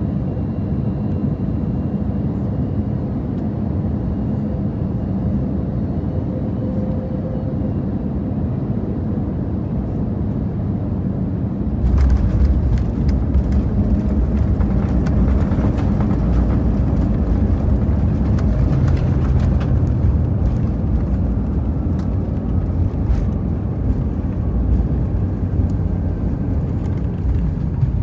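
Airbus A320 cabin noise at a window seat: a steady rumble of engines and airflow with faint whining tones, then, about twelve seconds in, a sudden louder low rumble with rattling and knocking that fits the main wheels touching down and rolling along the runway.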